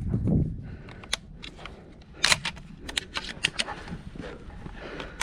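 Irregular sharp clicks and rattles, with a low thump right at the start and a louder cluster of clicks a little over two seconds in.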